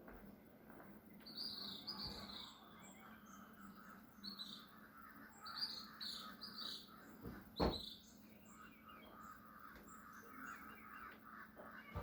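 Birds chirping: many short, high chirps in scattered clusters over a faint background of more distant calls. A single thump a little past halfway is the loudest sound.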